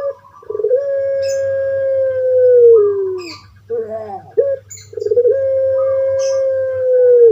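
Puter pelung (long-voiced Barbary dove) cooing: two long calls, each opening with a short rolling note and then drawn out into a held coo of about two and a half seconds that sinks slightly at the end. Brief high chirps of small birds sound faintly between and over the coos.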